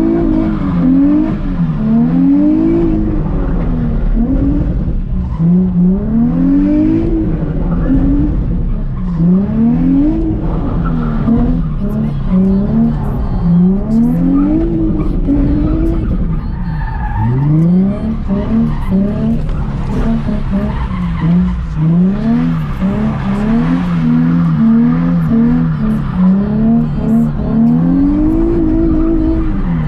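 Nissan 350Z's 3.5-litre V6 revving up and falling back again and again as the car spins donuts on wet asphalt, the revs swinging more quickly near the end, with the tyres skidding.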